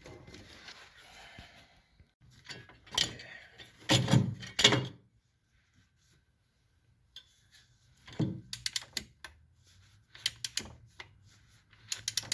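Hand tools working on metal engine parts: scattered clanks, knocks and quick runs of ratchet-like clicks as the water pump bolts are loosened, with a pause of a couple of seconds in the middle.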